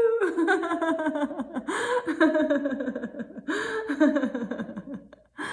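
A woman laughing heartily in rapid "ha-ha" runs that fall in pitch, as a laughter yoga exercise, after a spoken "choo-choo".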